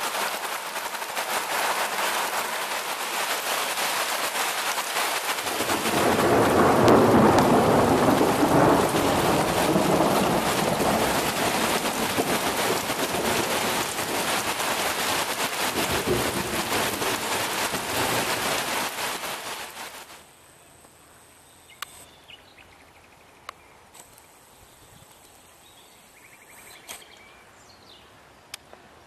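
Heavy downpour of rain with a long rumble of thunder starting about six seconds in and a second, shorter rumble later. About twenty seconds in, the rain noise cuts off abruptly, leaving a quiet background with a few faint clicks.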